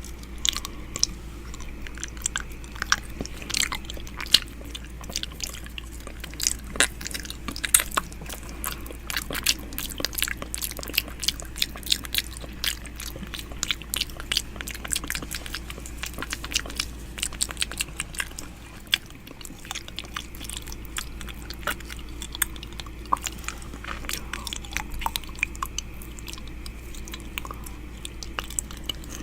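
ASMR 'ear eating' mouth sounds close on the microphone: rapid, irregular wet clicks, smacks and nibbling sounds, over a steady low hum.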